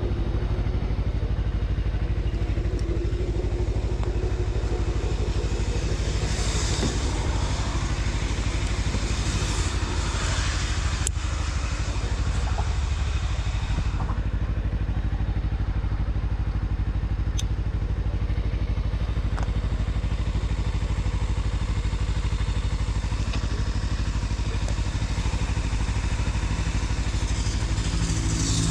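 A vehicle's engine running steadily while under way, with a constant hiss of road noise over it that swells briefly a couple of times.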